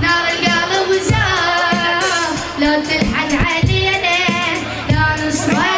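A boy singing a long, wavering Arabic melody with vibrato, over a steady drum beat.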